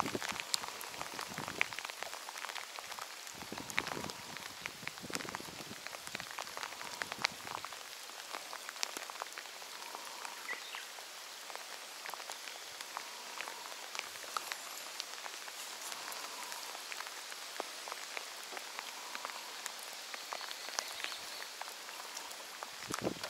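Steady rain falling on open reservoir water, an even hiss full of fine drop ticks. A few soft knocks come in the first several seconds.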